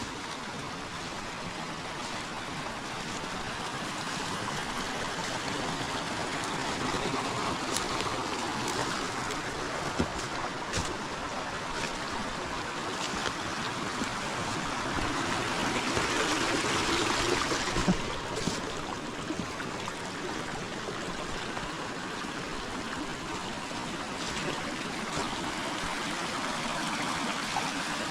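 Forest river water running with a steady rushing and trickling, swelling for a couple of seconds a little past the middle. A few sharp clicks stand out now and then.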